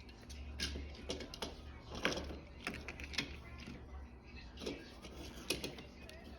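A run of irregular light clicks and knocks, several a second, over a low steady hum.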